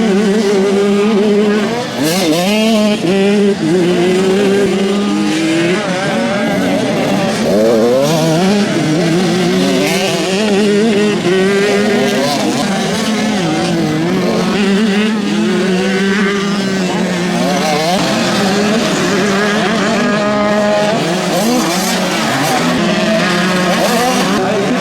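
Several motocross bikes racing, their engines revving up and down over and over as they accelerate and shift, with many engine notes overlapping.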